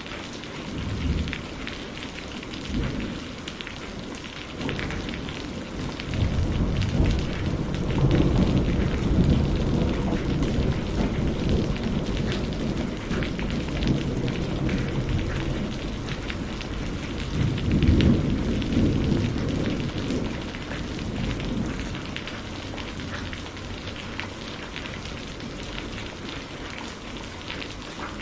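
Steady rain with many drops pattering, and thunder rumbling twice: a long roll starting about six seconds in and another swell near eighteen seconds.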